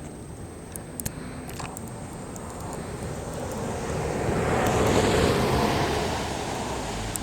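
A car driving past: its noise swells to a peak about two-thirds of the way through and then fades. A couple of sharp clicks sound about a second in.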